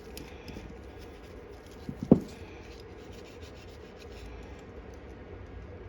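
Light rubbing and scratching of small carburetor parts being handled, with one sharp knock about two seconds in.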